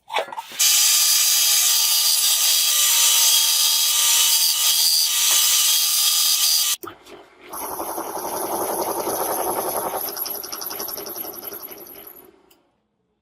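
A power tool runs in two stretches. The first is loud and steady and cuts off suddenly. The second, quieter run has a fast pulsing and dies away over about two seconds.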